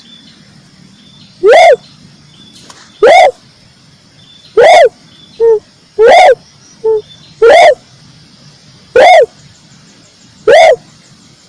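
Red turtle dove (red collared dove) cooing: a short, arched coo repeated about every one and a half seconds, seven times, with a couple of shorter, softer notes in between. The coos are very loud, peaking at full scale.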